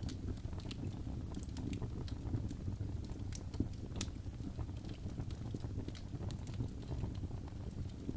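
Wood fire burning in a fireplace: irregular sharp crackles and pops over a steady low rush of flame, with one louder pop about four seconds in.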